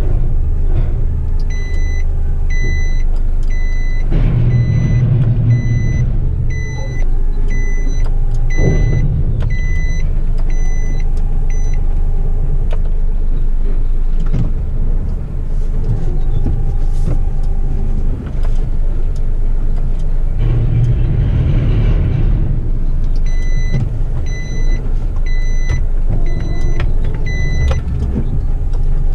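Heavy rubbish truck's diesel engine running while its hydraulic lifting arms work a bin, the engine swelling in pitch twice as the hydraulics take load. A warning beeper sounds in an even series of beeps, about one and a half a second, through the first part and again near the end.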